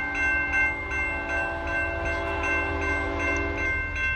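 Train horn sounding a long chord of several held notes, cutting off shortly before the end, over the low rumble of the passing train. A bright dinging repeats steadily, about two and a half times a second.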